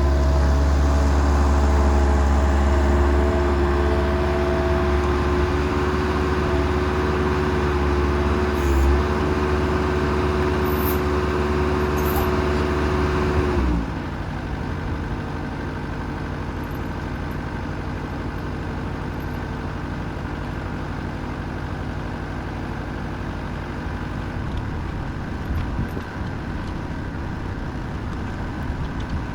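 Skid steer engine running steadily at speed. About halfway through its pitch falls away and it settles to a lower, quieter idle.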